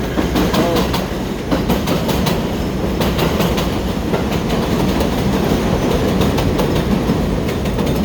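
Steady rumbling ride noise of a moving vehicle, with a constant run of rattling clicks.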